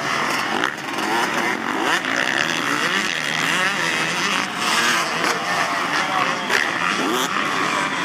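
Several motocross bikes racing around the track, their engines revving up and down in overlapping rising and falling notes.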